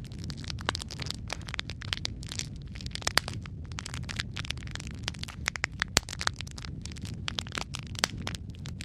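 Wood fire in a fireplace crackling: many sharp, irregular pops and snaps over a steady low rumble of burning, with a few louder cracks.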